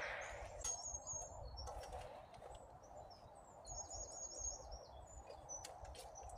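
Small birds chirping, with high, quick runs of notes about a second in and again around four seconds in, over a steady background rush; a few faint clicks.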